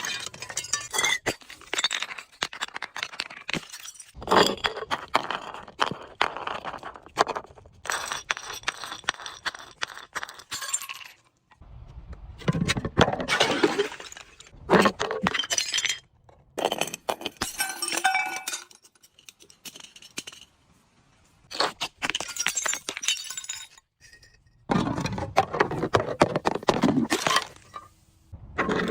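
Glass being broken and crushed: crunching, crackling and clinking shards in repeated bursts of a few seconds, with short pauses between them.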